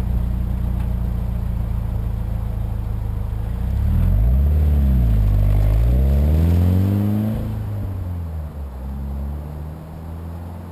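2013 Subaru BRZ / Scion FR-S 2.0-litre flat-four engine idling through a Greddy EVO 3 cat-back exhaust with silencers, then revved twice. The revs rise and fall about four seconds in, climb higher to a peak around seven seconds, then drop back to a steady idle.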